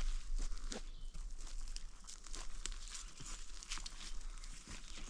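Irregular crunching and rustling of footsteps moving through dry brush and loose ground.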